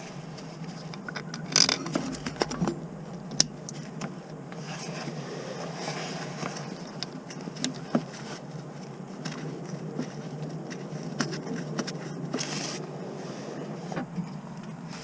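Scattered light clicks and scraping, with a few sharper clicks and two short hisses, over a steady low background hum.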